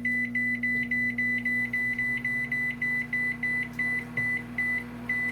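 A microwave oven running with a steady hum while its control panel beeps rapidly, about four short high beeps a second, as the cooking time is set.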